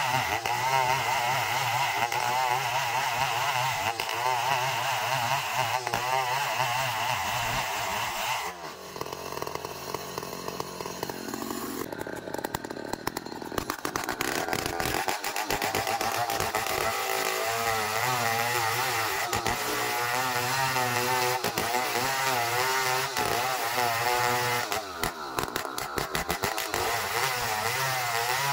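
Motor-driven saw running under load as it cuts through ironwood (ulin), its engine pitch wavering. About eight seconds in the engine drops off for a few seconds, then picks back up and runs on.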